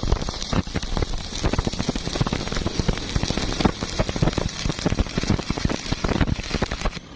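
Welding arc crackling and sputtering steadily, a dense rapid crackle over a hiss, cutting off suddenly near the end as the arc is broken.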